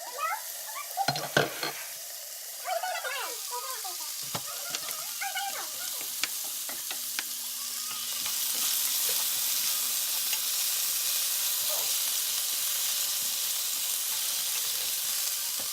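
Food frying in hot oil in a pan, with a steady sizzle that grows louder about eight seconds in, and a few light utensil clicks early on.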